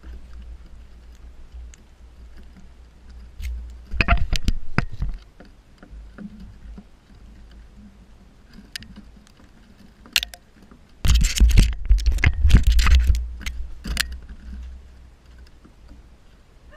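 Two bursts of clattering, scraping knocks, one about four seconds in and a longer one about eleven seconds in, over a steady low rumble.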